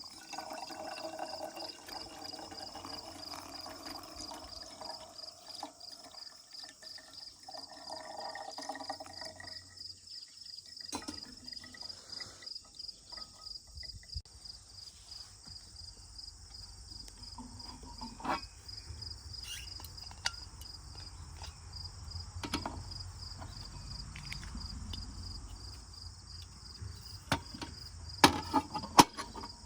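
Insects chirping steadily in a fast, high-pitched pulsing trill. For about the first nine seconds a stream of water pours, with a short break partway through. After that come scattered sharp clicks and knocks, the loudest few close together near the end.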